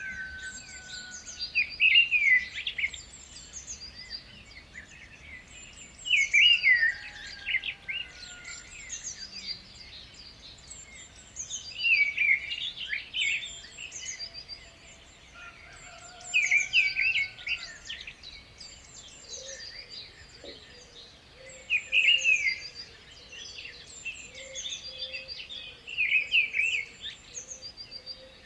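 Birds singing: one loud song phrase comes back about every five seconds, over steady high chirping from other birds.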